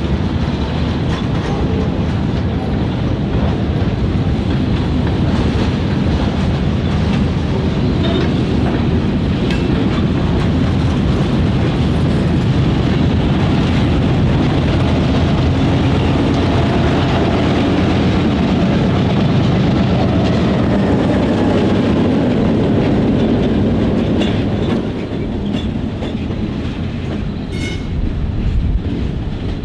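Freight cars rolling along the track with a diesel engine running, a steady rumble with the clatter of wheels on rail. It eases off somewhat about 25 seconds in.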